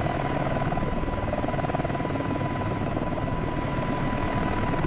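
Helicopter running with its rotor engaged: a steady, fast rotor beat under a constant high whine.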